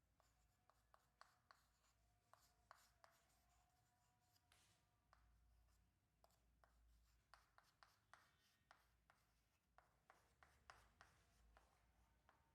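Very faint writing: scattered taps and short strokes as the equation is written out, over a faint steady hum.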